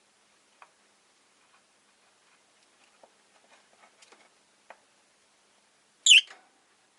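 Faint scattered ticks and scratches, then about six seconds in a single short, shrill chirp from a rosy-faced lovebird.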